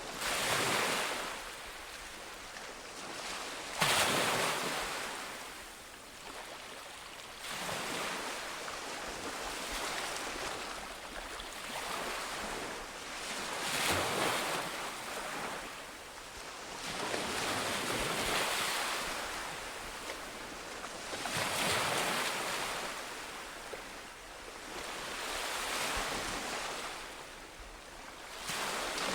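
Ocean waves breaking on a shore, swelling and receding in surges every three to five seconds, with one sharp crash about four seconds in.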